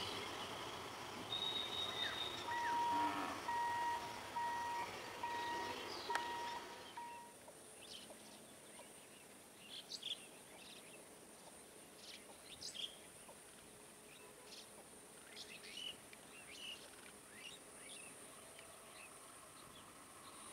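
For about the first seven seconds, the running noise of an approaching electric local train, with a run of short, evenly spaced electronic beeps over it. It then cuts to a quiet trackside background: scattered short bird chirps over a steady high-pitched hiss.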